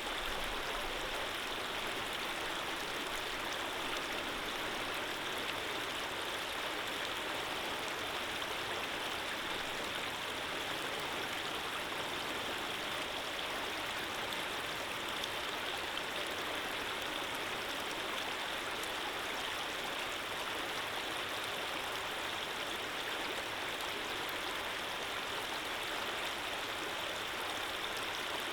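Running water of a gentle stream flowing steadily: an even, unbroken hiss with little low rumble.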